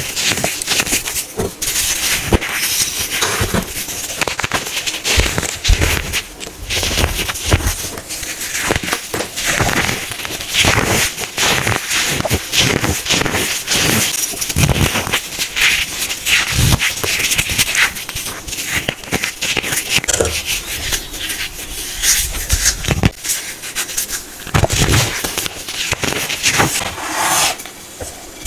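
Hard-packed baking soda being crushed: a dense, unbroken run of sharp crunches and crackles.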